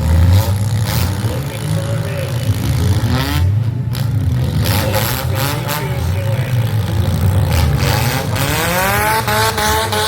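Demolition derby cars' engines running loud with a deep rumble, one revving up in a rising whine near the end.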